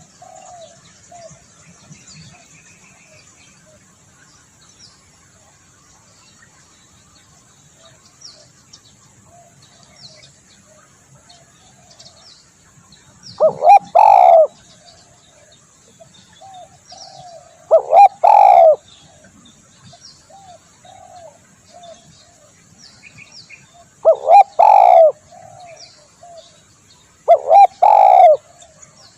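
Spotted dove cooing: four loud phrases of two or three low coos each, a few seconds apart, with fainter coos and small bird chirps in between.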